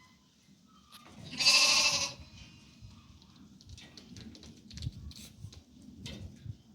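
A single loud bleat from a sheep or goat, lasting under a second, about a second and a half in, over faint scattered knocks.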